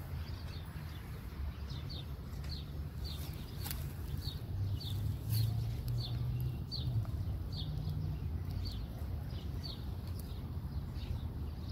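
A bird repeats a short, high, falling chirp about twice a second over a steady low hum of street traffic.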